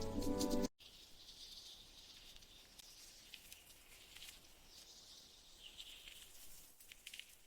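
Background music cuts off abruptly under a second in, leaving faint forest ambience: a thin, high, steady hiss with a few soft chirps and clicks.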